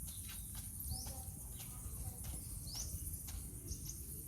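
Outdoor ambience: a bird repeats a short rising chirp every couple of seconds over a steady high insect hiss, with scattered faint clicks.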